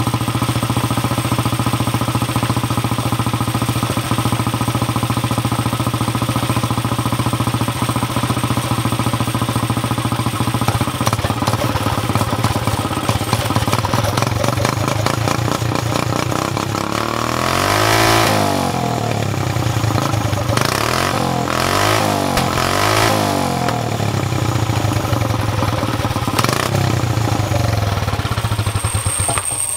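Go-kart engine fitted with a motorcycle exhaust, running steadily. About halfway through it swells louder with its pitch rising and falling, then rises and falls a few more times before settling back to a steady run.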